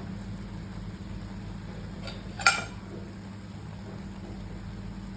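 A pan of noodles cooking on the stove, sizzling gently over a steady low hum. A utensil clinks sharply against the pan about two and a half seconds in, just after a fainter click.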